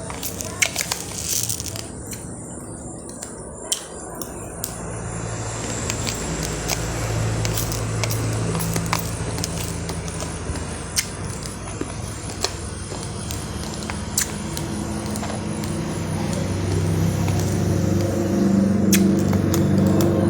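Raw rice grains crunching, irregular sharp cracks scattered through a steady background noise. Music with steady low tones rises near the end.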